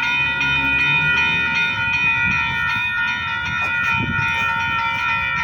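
Freight train noise: a steady, high-pitched whine made of several pitches at once, held without a break, over a low uneven rumble.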